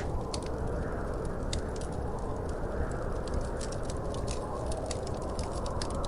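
Wood fire crackling: frequent sharp, irregular pops and snaps over a steady low rushing noise.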